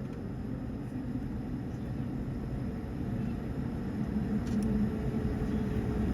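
Steady low rumble of an Airbus A220's cabin, its engines and air system running as it taxis. A faint steady hum comes in about halfway and the rumble grows slightly louder.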